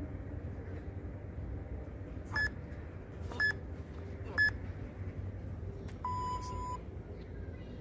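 Interval workout timer counting down: three short high beeps a second apart, then one longer, lower beep marking the switch from the work interval to the rest interval.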